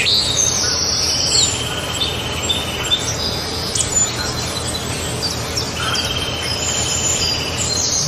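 Songbirds chirping and trilling: two even trills of about two seconds each, with scattered short high chirps over a steady background hiss.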